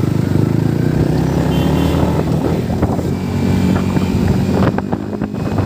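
Motorcycle engine running steadily under way, with wind buffeting the microphone; the level dips briefly about five seconds in.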